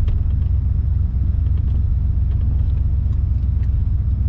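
Steady low rumble of an old Ford F-150 pickup heard from inside the cab while it is being driven, engine and road noise together.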